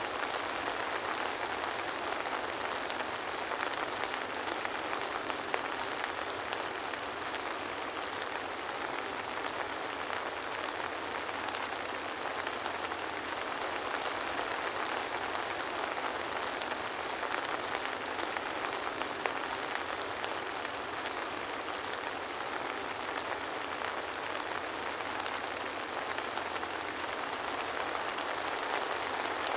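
Steady soft rain falling, an even hiss with a few separate drops ticking, and no thunder.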